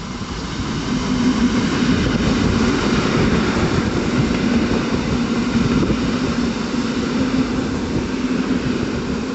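Train passing through the station: a steady rumble of wheels on rail with a low hum running through it, building over the first second and then holding.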